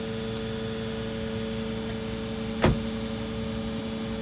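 Steady machine hum, with one sharp knock about two and a half seconds in.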